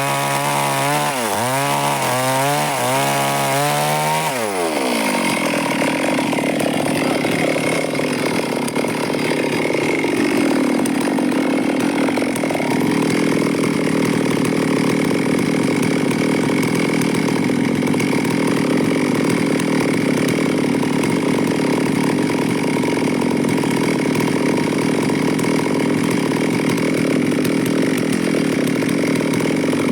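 Stihl two-stroke chainsaw revving up and down about three times over the first four seconds, then cutting steadily through wood under load for the rest, its engine note sagging briefly about ten seconds in before recovering.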